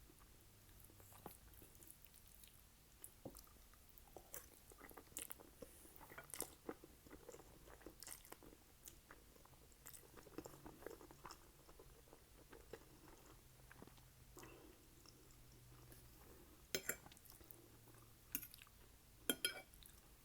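Close-miked chewing of spaghetti and garlic bread: soft, irregular wet mouth clicks and crunchy bites, with a few louder, sharp clicks near the end.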